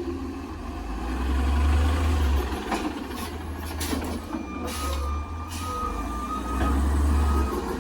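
Older LNG side-loader garbage truck at work: a heavy low engine rumble swells twice, with a few sharp hisses or clanks about three seconds in. A high steady tone sounds through the second half.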